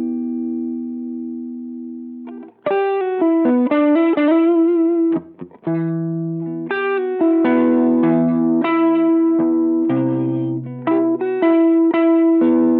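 Electric guitar played through a Behringer Vintage Overdrive TO100, a Tube Screamer-style green overdrive pedal. A held chord fades out, then after a brief break about two and a half seconds in comes a run of picked notes and chords with some bent, wavering notes.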